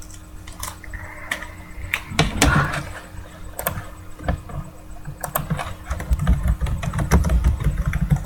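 Close handling noises: scattered sharp clicks and taps, with low rumbling bumps about two seconds in and again in the last couple of seconds.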